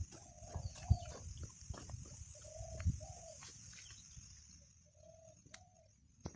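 A dove cooing: short arched coos given mostly in pairs, repeated several times. Low rumbles and a couple of thumps sound under the first three seconds, and a faint steady high hiss runs beneath.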